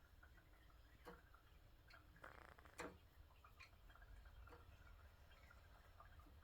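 Near silence: a low steady hum with a few faint clicks, the clearest near three seconds in, and a brief soft rustle just before it.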